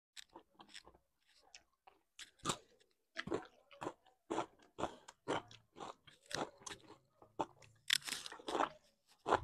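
Close-miked eating sounds: crisp bites and crunching of raw cucumber with wet chewing, about two crunches a second, soft at first and loudest near the end.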